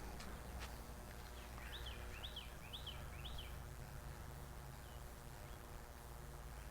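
A bird calling a quick series of about five short, high, rising-and-falling notes, faint against a low steady outdoor rumble, with a couple of light clicks near the start.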